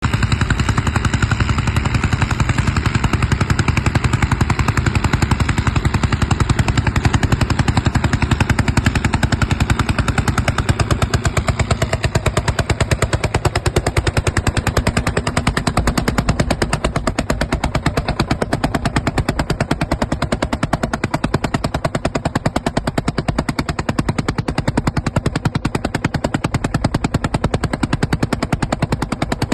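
Landini Super tractor's single-cylinder two-stroke hot-bulb engine running under ploughing load, its exhaust firing as a loud, fast, even crackle of sharp pops.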